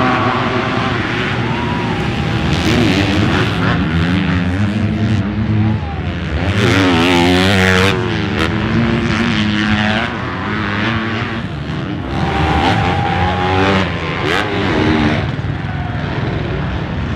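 Several motocross bikes racing, their engines revving up and down in pitch as they accelerate and shift. One bike comes loudest about halfway through.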